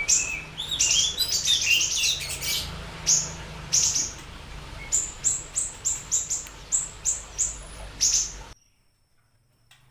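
Siri-siri bird singing: sharp, high chirps, tangled at first, then settling into an even series of about two a second, before cutting off suddenly near the end.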